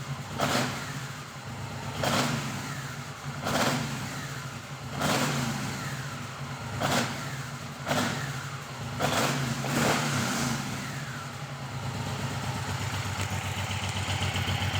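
2011 Suzuki Boulevard M109R's 1,783 cc V-twin running through its stock exhaust, the throttle blipped about eight times, each rev falling back to idle. From about ten seconds in it idles steadily.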